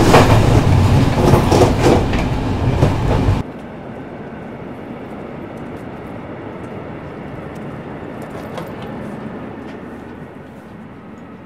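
Train running on the rails: a loud rumble with sharp wheel clatter, which cuts off abruptly about three and a half seconds in. A much quieter steady rumble follows and slowly fades.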